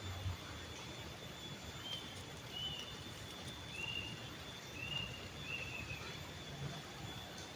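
Outdoor ambience: a bird gives about five short arched high chirps over a steady background hiss, with a thin, steady high whine throughout.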